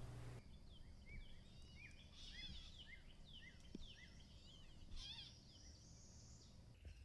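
Faint bird chirping: many short, quick notes, several a second, from about a second in until near the end, over a quiet background.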